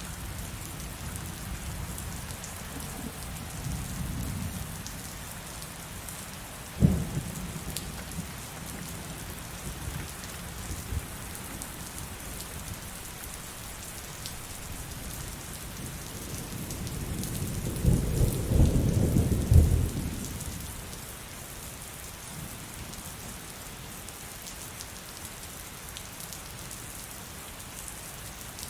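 Steady heavy rain with thunder: a sharp, sudden crack about a quarter of the way in, and a loud rolling rumble that builds and dies away about two-thirds of the way through.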